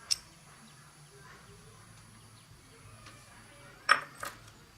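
Metal clinking, as of hand tools being handled: one light clink just after the start and two sharper clinks close together near the end.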